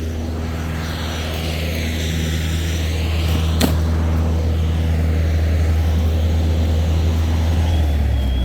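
An engine running steadily with a low hum, with one sharp click about three and a half seconds in.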